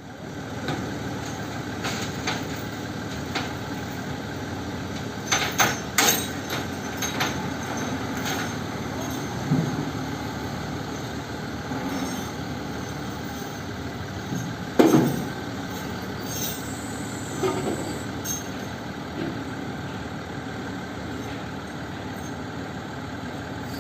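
A truck engine running steadily, with a few sharp clanks about five to six seconds in and a louder sudden sound, falling in pitch, about fifteen seconds in.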